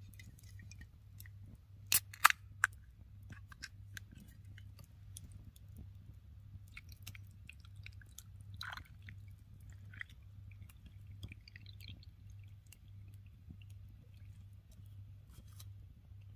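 Quiet crunchy chewing with small scattered clicks, three sharp clicks about two seconds in, over a low steady hum.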